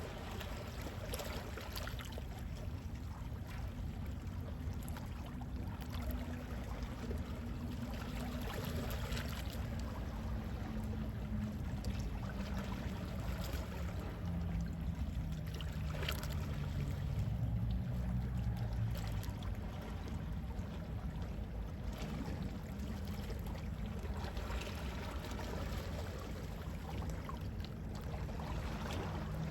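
Calm sea waves lapping steadily, with small splashes every few seconds over a low rumble.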